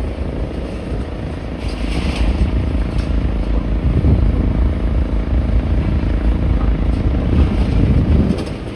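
Wind buffeting the microphone in a loud, uneven rumble, over the hum of street traffic.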